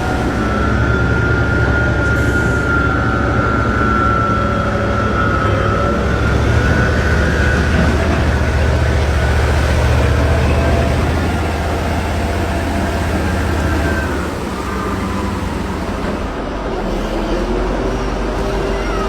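A heavy engine running steadily with a high whine over its low drone; the drone and whine ease off about three-quarters of the way through.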